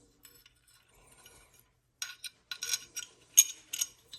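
Small metal AR-15 parts clinking and tapping as they are handled: a string of light, sharp clicks in the second half, the loudest about three and a half seconds in.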